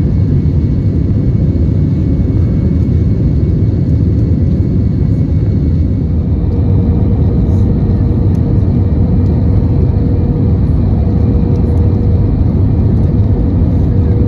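Steady in-flight cabin noise of an Airbus A321: a loud, even rumble of airflow and jet engines, with a faint steady whine above it. A steady low hum joins about halfway through.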